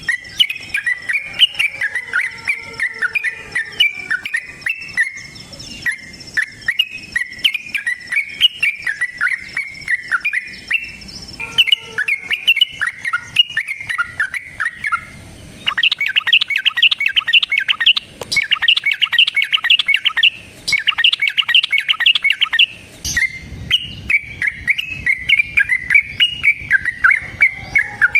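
Yellow-vented bulbul (trucukan) giving a long, excited fighting song: a fast stream of chattering, warbled notes, which breaks into a dense rapid trill about halfway through for several seconds before the chattering phrases return.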